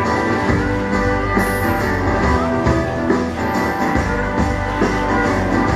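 Live rock band playing an instrumental passage, guitar over a steady drum beat.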